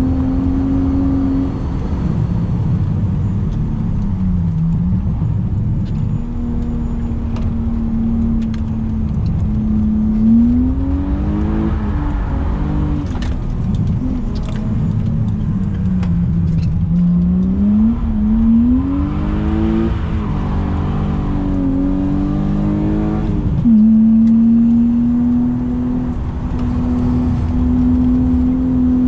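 BMW E36 328i's M52B28 2.8-litre straight-six driven hard on a race track: the engine note holds high, then falls away and climbs again several times as the car brakes, shifts and accelerates out of corners, with a sharp jump back up to high revs near the end.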